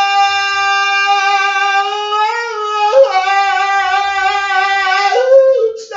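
A voice singing long, held notes in a wordless chant: one steady note for about two seconds, then a slight rise, with changes of pitch about three and five seconds in.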